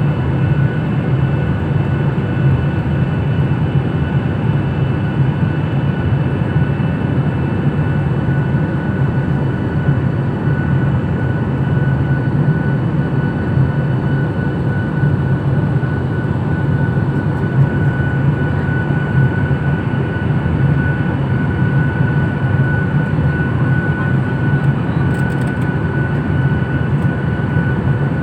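Airliner cabin noise in flight, heard from inside the cabin: a steady, loud drone of engines and airflow with a few high whining tones held throughout.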